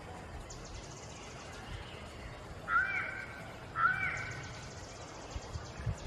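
A bird gives two short calls about a second apart, over a steady outdoor background hiss.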